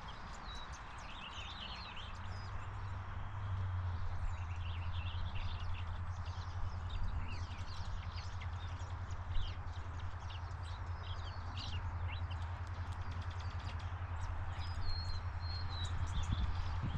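Several small birds chirping and calling in short high notes throughout, over a steady low rumble and hiss.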